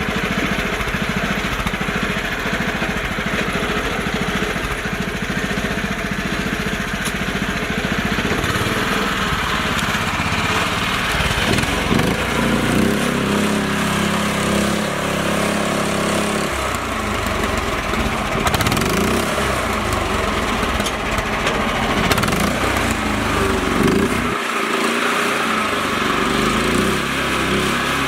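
Small engine of a mini tractor running continuously, its pitch rising and falling from about the middle onward as it works.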